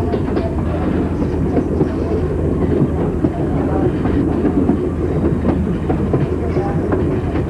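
Passenger train rolling over jointed track: a steady rumble of wheels with scattered clicks from the rail joints.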